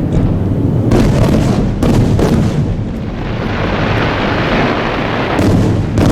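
Aerial fireworks shells bursting: deep rolling booms with several sharp reports, and a few seconds of dense hissing crackle in the middle.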